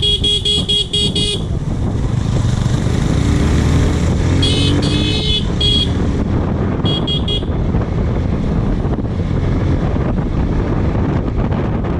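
Motorcycle riding on the road with a steady low rumble, while a vehicle horn sounds in quick repeated beeps: a burst of about seven at the start, another about four seconds in, and a short one about seven seconds in.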